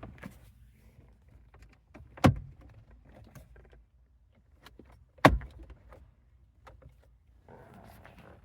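Two sharp plastic snaps about three seconds apart: dashboard trim clips popping into place. Small clicks of plastic being handled come between them, and a rustle near the end.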